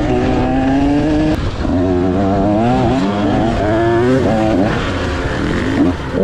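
KTM 125 SX two-stroke dirt bike engine revving, its pitch holding for about a second, then rising and falling again and again.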